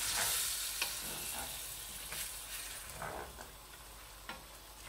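Diced onions and chicken frying in oil in a stainless steel pot, stirred with a wooden spoon: a sizzle that starts suddenly, loudest in the first second or so and dying down, with a few light knocks of the spoon against the pan.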